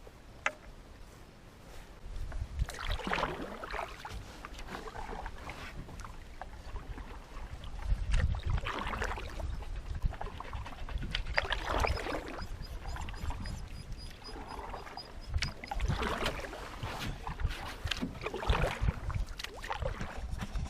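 Canoe paddle strokes swishing and splashing through the water, a stroke every few seconds, over a low rumble.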